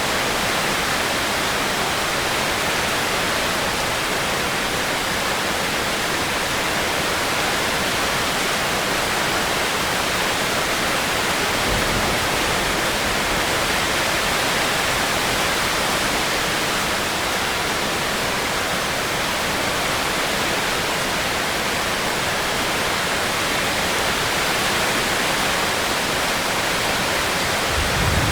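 Steady heavy rain, an even hiss, with a brief low rumble about halfway through.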